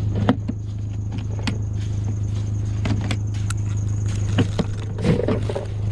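1997 Ford Ranger idling with a steady low hum, under scattered sharp clicks and knocks as a toolbox is opened and rummaged through.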